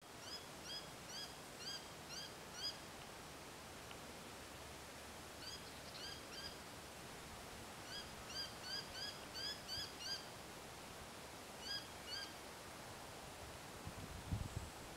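A bird calling: runs of short, arched notes, about two to three a second, repeated several times over a quiet outdoor background hiss, with a brief low thump near the end.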